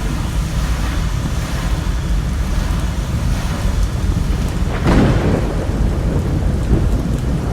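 Heavy rain falling steadily under a low rumble of thunder, with a louder crash about five seconds in.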